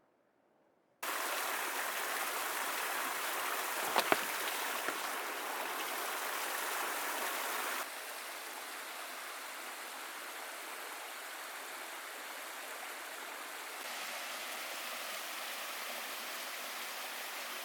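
Steady hiss of running water that starts abruptly about a second in and shifts in level twice, with one sharp knock about four seconds in.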